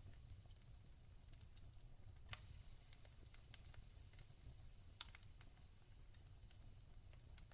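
Log fire crackling: scattered small pops and snaps, with a louder pop about two seconds in and another about five seconds in, over a faint low rumble.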